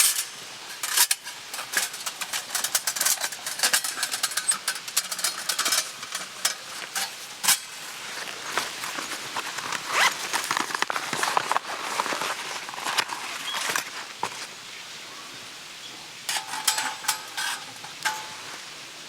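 Camp cooking on an iron griddle: metal utensils clicking and clinking at an irregular pace over a crackling, sizzling hiss.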